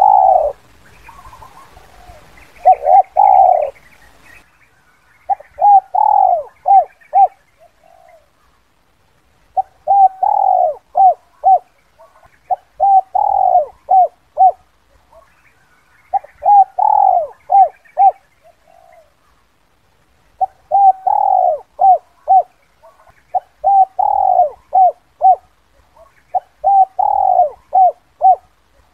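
Spotted dove (tekukur) cooing its 'kuk 2' call. Each phrase is a run of short coos with one longer, falling note, and the phrases repeat about every three to four seconds.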